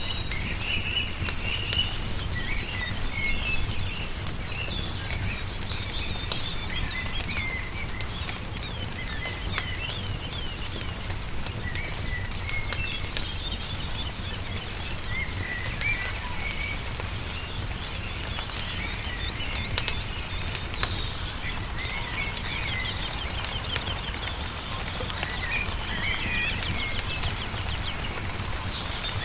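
Wood fire crackling with scattered sharp pops, over small birds chirping and trilling again and again, with a low steady rumble underneath.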